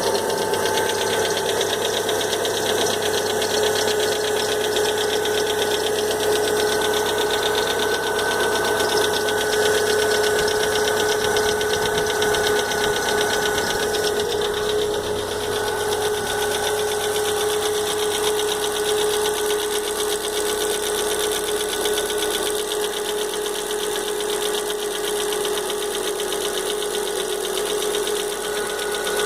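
Volkswagen Fox engine running steadily with an abnormal noise: a steady whine over a fast, even ticking or knocking. The owner cannot tell what fault it points to.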